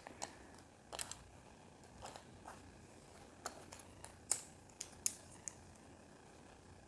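Small plastic building pieces clicking and tapping as they are picked up and handled, a dozen or so light, separate clicks at irregular intervals.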